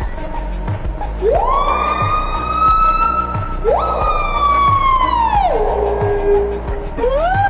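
A canine howling twice, long drawn-out howls that rise quickly, hold, then slide down in pitch. Shorter, quicker yipping calls begin near the end, over background music with a steady beat.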